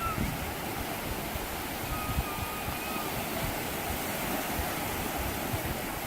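Sea waves washing onto a beach: a steady rushing surf.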